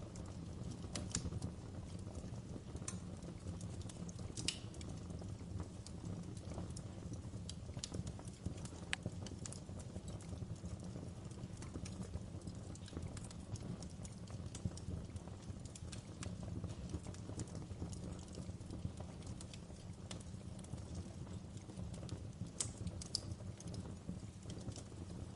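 Fire crackling in a fireplace: a steady low rush of flame with irregular sharp pops and snaps, a few louder snaps near the end.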